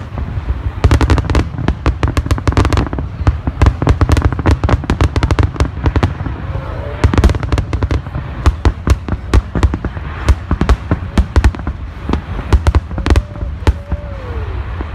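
Aerial fireworks display: a dense, rapid barrage of shell bursts, many sharp cracks and booms every second over a continuous low rumble.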